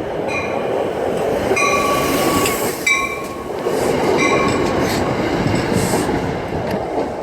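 A train running close by, a dense steady rumble of its wheels on the rails. Several short stretches of high metallic squeal come and go in the first five seconds.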